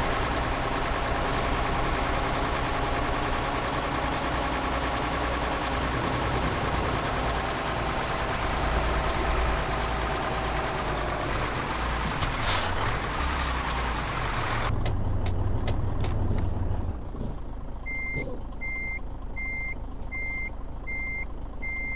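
Truck engine running with road noise inside the tanker truck's cab as it drives slowly, with a short hiss of air about twelve seconds in. The sound then turns suddenly quieter, and near the end an electronic beep starts repeating steadily, about one and a half beeps a second.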